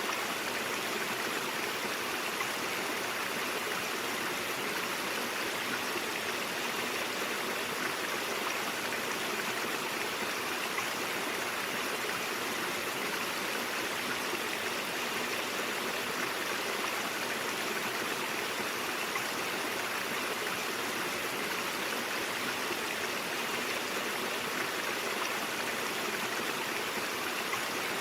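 Stream water flowing over rocks, a steady rushing and babbling with no breaks.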